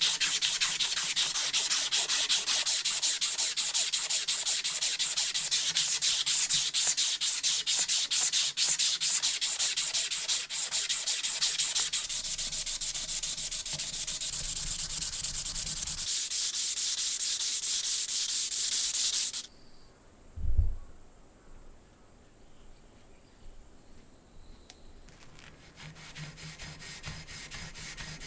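Sanding a part of an old hand drill: a steady, scratchy rasp of abrasive made of rapid strokes, which stops abruptly about two-thirds of the way through. A single dull thump follows, then quiet.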